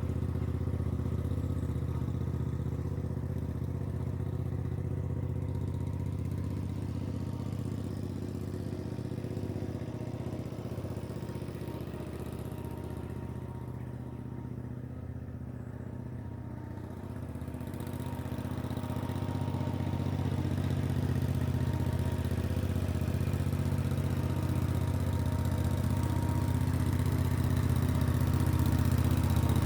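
Engine with open exhaust stacks idling steadily, left running to warm up after sitting all winter; it fades a little in the middle and grows louder again near the end.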